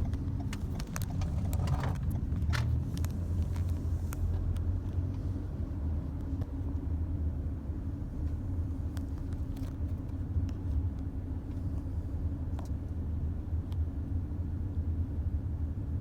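Mack LEU refuse truck's compressed-natural-gas engine running with a steady low rumble, with a scatter of sharp clanks and knocks, most of them in the first few seconds.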